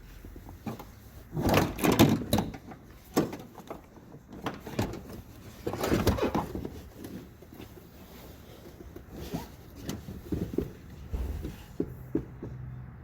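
Bursts of clattering and knocking, loudest about two seconds in and again around six seconds in, with lighter taps near the end.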